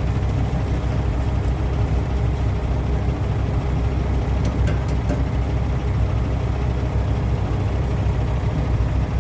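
Steady low rumble of an engine running, with a faint hum above it.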